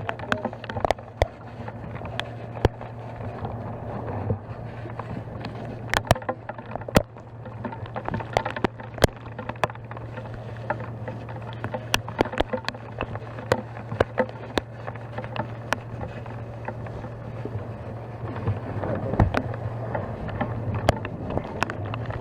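A steady low engine hum under a noisy hiss, with many irregular sharp clicks and cracks.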